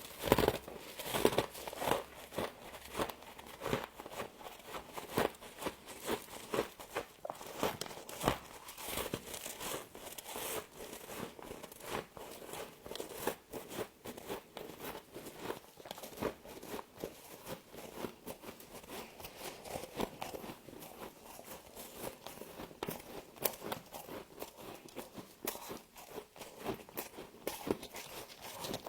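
Frost being bitten and chewed: a continuous run of crisp, irregular crunches and crackles, several a second.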